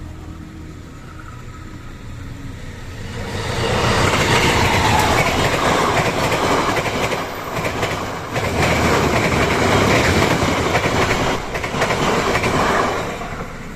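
Train passing close by: the rush and clatter of wheels on the rails builds up over the first few seconds, stays loud for about ten seconds, then falls away near the end.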